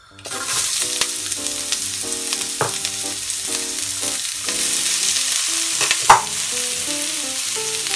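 Chopped shallots and red pepper sizzling as they fry in hot oil in a wok, a steady hiss with one sharper, louder crackle about six seconds in.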